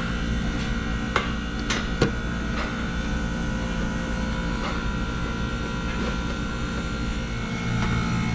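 A few light clicks and taps of parts being handled and fitted, the sharpest in a quick cluster about a second in, over a steady electrical hum.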